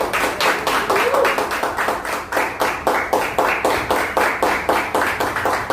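A group clapping in a fast, steady rhythm, about five claps a second, with a voice calling out briefly about a second in.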